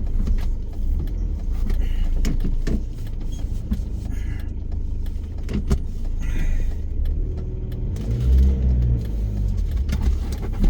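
Steady low engine and road rumble of a car being driven, heard inside the cabin, with scattered light clicks and knocks.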